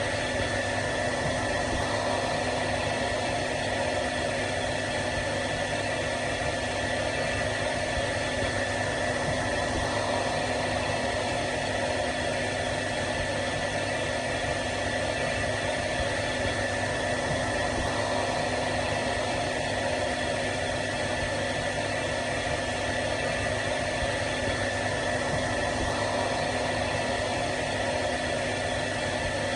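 Hair dryer running steadily without a break: an even rush of air with a constant motor hum and a thin high whine.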